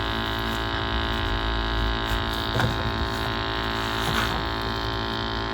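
Steady hum with many even overtones from a firing Glow-worm Flexicom gas boiler, with a couple of faint clicks.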